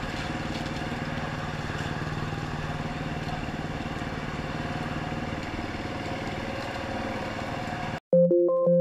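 Yamaha WR450F supermoto's single-cylinder four-stroke engine idling steadily. About eight seconds in it cuts abruptly to electronic music.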